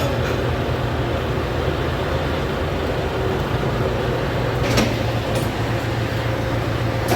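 Kirovets tractor's diesel engine running steadily as it moves off towing another tractor, with a sharp clank about five seconds in.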